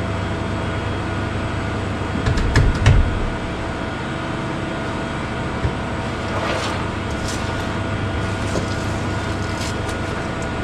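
A steady mechanical hum with a cluster of low thumps about two to three seconds in.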